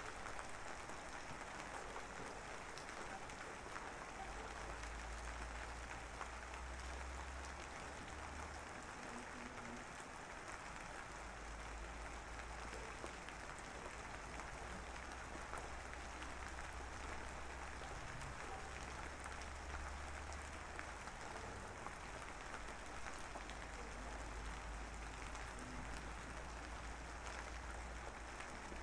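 Steady rain sound, an even hiss without breaks, with a low rumble under it that comes and goes.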